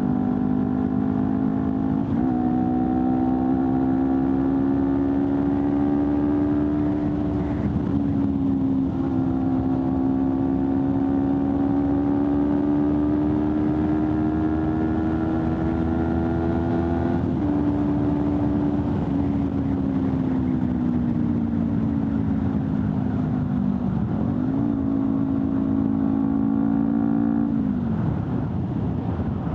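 Honda CBR250RR's parallel-twin engine through an Akrapovic slip-on exhaust, ridden under load: the pitch climbs slowly, then drops in steps at gear changes, once about a third of the way in and again a little past halfway. It then falls gradually as the bike slows, rises briefly, and drops again near the end, with wind rush underneath.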